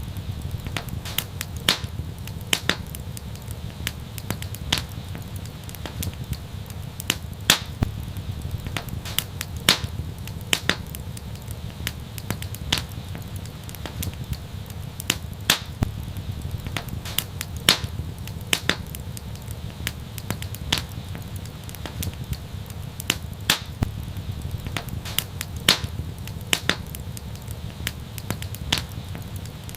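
Wood fire crackling in an outdoor fireplace: irregular sharp snaps and pops, a few a second with louder ones every second or two, over a steady low rumble of the flames.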